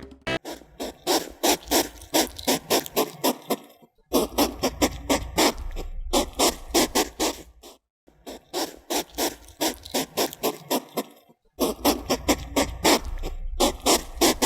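A woodland animal's call: rapid pulsed calls, about three to four a second, in four runs of a few seconds each with short pauses between them.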